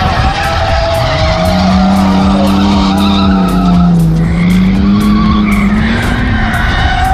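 Ford AU Falcon drift car sliding under power, engine held high in the revs with tyre skid noise. The engine note climbs about a second in, wavers and dips, rises again, then falls away near the end.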